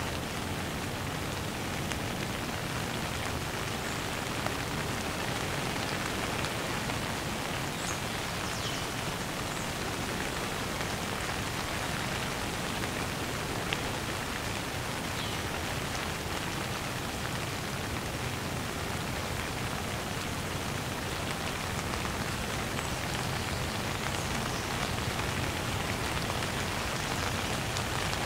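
Heavy rain pouring down steadily, a dense, even hiss of falling water that holds at the same level throughout.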